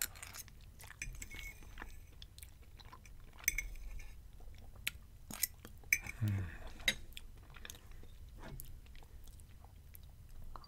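Wet chewing of a mouthful of spaghetti, with scattered sharp clicks of a metal fork against a ceramic plate.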